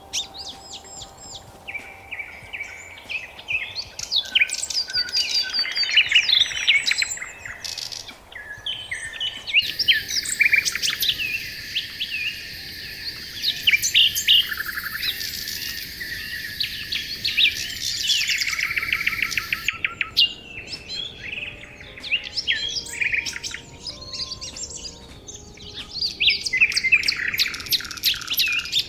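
Several songbirds chirping and singing, with many quick overlapping calls and trills. The whole chorus changes abruptly twice, as if spliced from different recordings.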